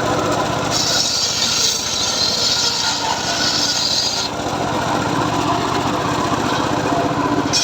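Homemade engine-driven circular saw running steadily, its blade cutting through teak wood from about a second in until about four seconds in, then spinning on without cutting.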